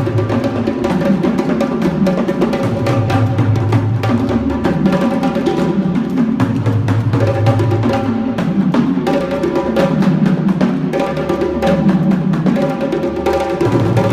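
A live drumming ensemble playing a steady, driving rhythm: deep drums repeating a low phrase every couple of seconds under busy, sharp hand-drum and stick strokes, with a sustained pitched ring above the beat.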